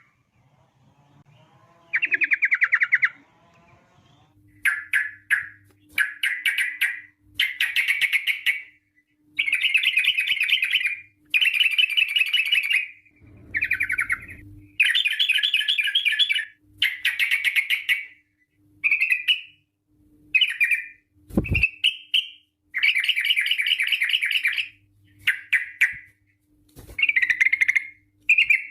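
Yellow-vented bulbul (trucuk) singing: a long series of rapid, chattering trilled phrases, each about a second long, following one another with short gaps. A single dull thump comes a little past the middle.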